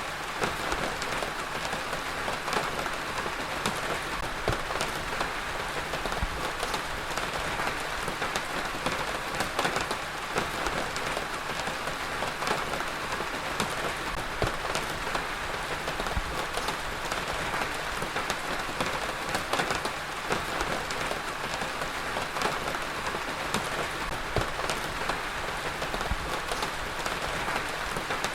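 Heavy rain falling steadily, a dense even hiss of rain on a surface with many distinct drop impacts ticking through it.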